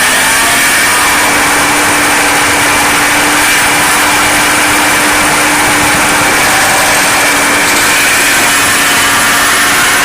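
John Deere 5225 tractor engine running steadily while driving a PTO-powered RockWay-Heath RWH4 stump grinder; its hum rises slightly right at the start, then holds.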